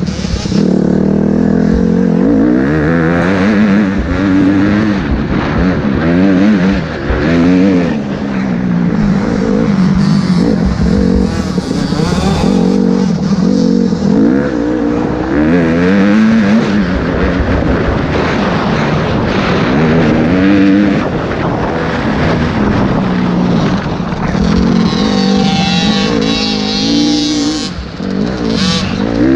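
Motocross bike engine revving hard, its pitch rising and falling over and over as the throttle is opened and shut, with a higher rising whine near the end.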